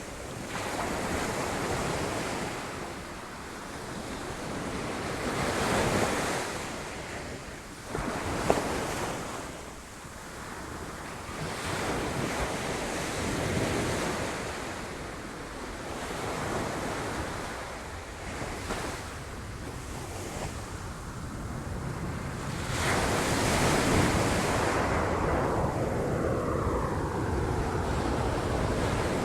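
Sea waves breaking against rocks, the wash of water swelling and ebbing in surges every few seconds, with the largest and longest surge in the last few seconds. A brief sharp knock sounds about eight seconds in.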